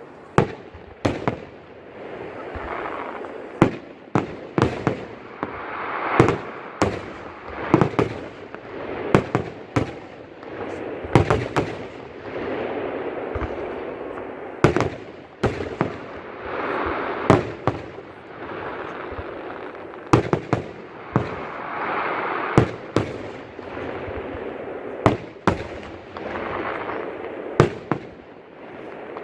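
Aerial fireworks display: a steady run of sharp shell bursts, often two or three in quick succession, over swells of rumbling noise between them.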